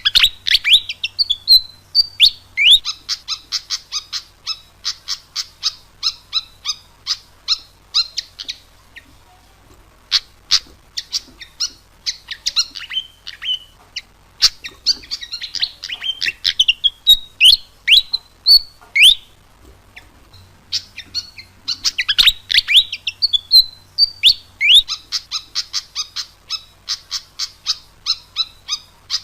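Fantail singing in full voice: fast runs of sharp, high chirps mixed with quick rising and falling whistles, in phrases of several seconds with short pauses between them.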